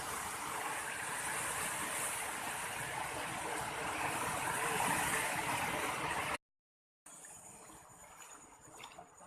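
Steady rushing of a flood-swollen river, cutting off suddenly about six seconds in. After a short gap, quieter outdoor ambience with a thin, steady high-pitched tone.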